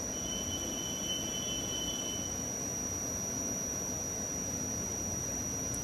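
Pause in a talk: steady background hiss with a thin, constant high-pitched whine, and a fainter second tone that fades out about two and a half seconds in.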